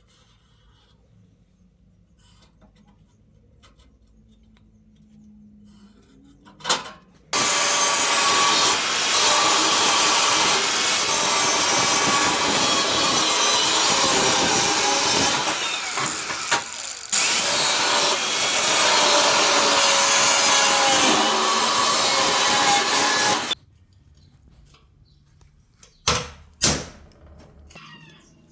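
A power tool working material for about sixteen seconds, starting abruptly about seven seconds in with a short break partway and stopping abruptly, followed by a few knocks near the end.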